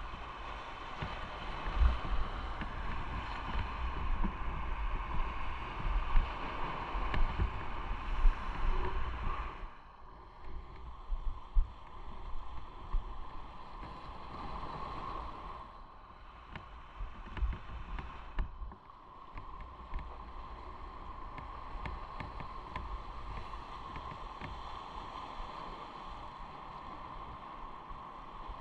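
Motorcycle on the move: engine running under wind rush and buffeting on the microphone. It is louder at first, drops off about ten seconds in, swells briefly again, then settles to a steadier, quieter run.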